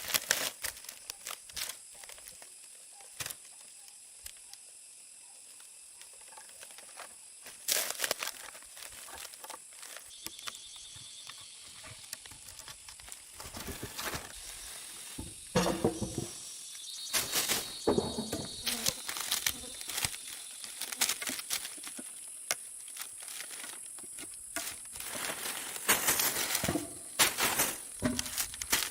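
Steady high-pitched insect drone, with scattered clicks, knocks and clatter throughout, busier in the second half.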